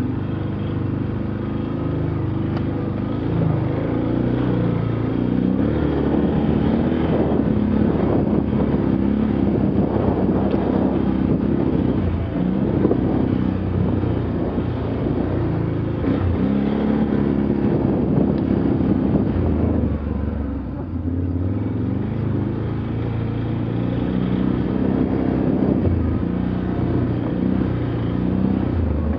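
Motor vehicle engine driving off-road under varying load, its pitch rising and falling with the throttle, easing briefly about two-thirds of the way through.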